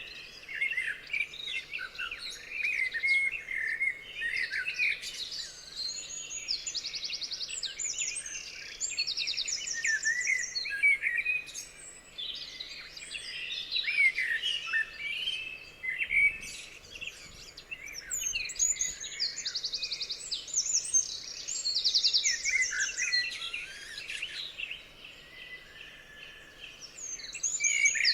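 Several songbirds singing together in a dense chorus of chirps, whistled phrases and rapid trills, some of them fast buzzy trills repeated every few seconds.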